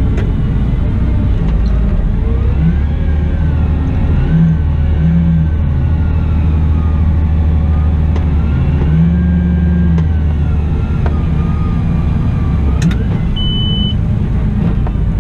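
Cat 972M XE wheel loader running under work, with a steady low engine hum and a drivetrain whine that rises and falls as it moves and works. A click comes near the end, followed by a single short high beep.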